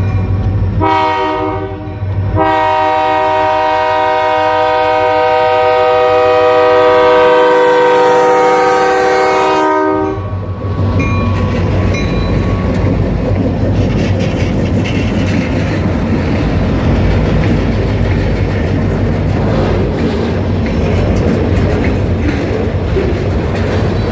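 Diesel freight locomotive's air horn: two short blasts in the first couple of seconds, then one long blast that cuts off about ten seconds in. After that, the train's steady rumble and wheel clatter as it rolls past.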